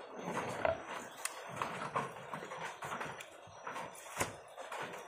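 Close, crisp crunching and wet mouth clicks of someone chewing raw kedondong (ambarella) fruit, in irregular crunches with a few sharp louder snaps.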